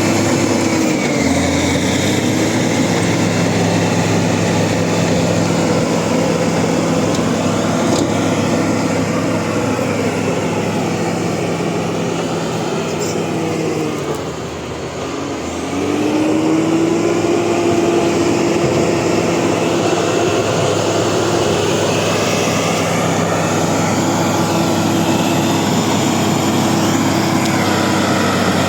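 Bulldozer's diesel engine running steadily under load; about halfway through its note drops and quiets for a couple of seconds, then climbs back up and holds.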